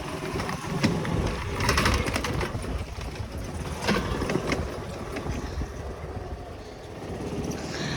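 A small motor vehicle running over a bumpy dirt track, with clattering knocks about two and four seconds in.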